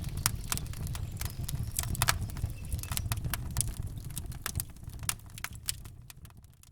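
Campfire crackling, with many irregular sharp pops over a low steady rumble, fading out near the end.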